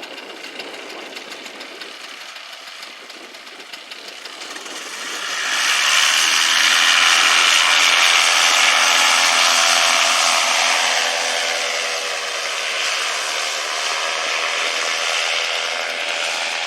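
A small engine running steadily, growing louder about five seconds in and holding there until it cuts off abruptly at the end.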